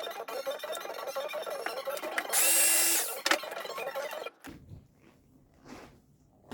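Electric saw cutting upholstery foam, a dense buzzing that rises to a louder, steady whine for under a second about halfway through, then cuts off abruptly near the end.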